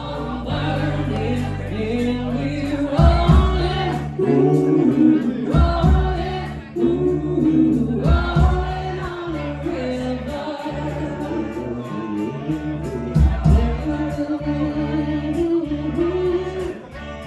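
Live band music at a slow, steady pace: sustained bass notes and drums with regular cymbal ticks under a lead melody.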